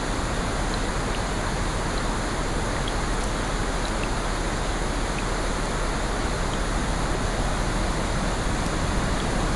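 Steady rushing noise of water from a rain and ocean nature-sound track, holding an even level, with faint scattered small ticks over it.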